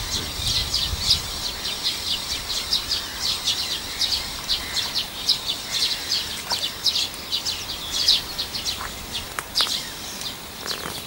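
Songbirds singing steadily, a dense run of short high chirps, with a brief low rumble in the first second or so.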